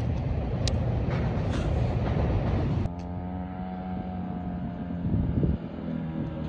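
Wind buffeting the microphone with a low rumble. About three seconds in, this gives way to a dirt bike's single-cylinder four-stroke engine running steadily with an even pitch, from a Honda CRF150R.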